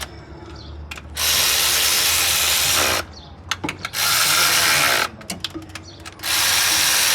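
A workshop power tool run in three loud bursts of one to two seconds each, every burst cutting off sharply, with small tool clicks in the quieter gaps between them.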